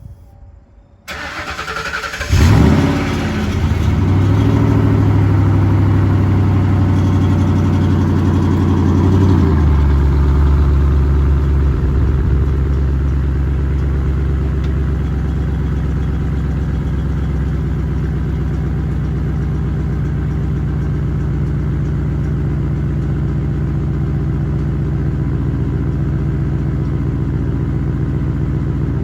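Exhaust of a 32-valve 4.6 modular V8 through Stainlessworks chambered mufflers: the engine is cranked about a second in, catches with a short rev, runs at a raised idle, then drops to a lower steady idle about nine seconds in.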